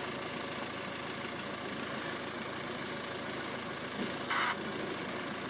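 Steady background rumble of a motor vehicle's engine running at idle, with a short hiss about four seconds in.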